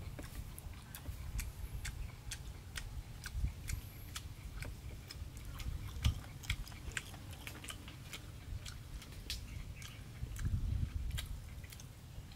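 A person chewing food with the mouth close to the microphone: irregular wet smacking clicks, a few each second, over a low rumble.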